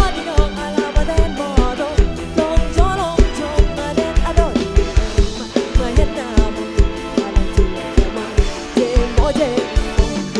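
Live Isan dance-band music: a drum kit beats a steady rhythm under a bending, sliding lead melody.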